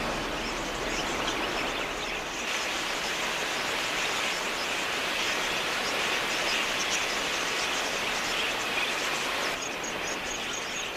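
A large flock of budgerigars chattering, a dense steady twitter.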